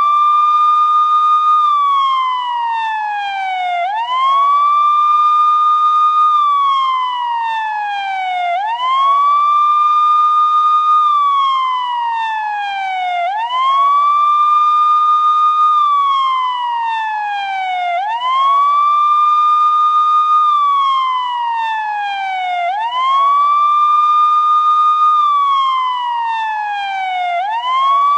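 Police car siren wailing in a slow repeating cycle: each wail rises quickly, holds its top note for about a second and a half, then slides down over two seconds before rising again, about six cycles in all.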